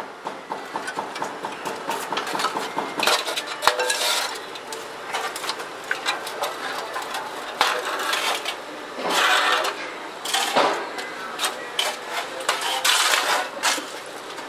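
Metal tools clattering and tapping on car-body sheet metal during rocker-panel rust repair: irregular knocks and rapid runs of ticks, with a few louder scraping stretches.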